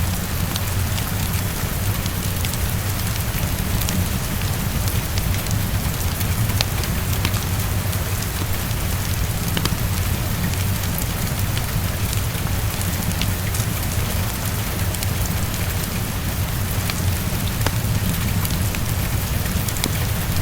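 Steady heavy rain against a window, with a constant low rumble underneath and scattered sharp crackles from a wood fire in a fireplace.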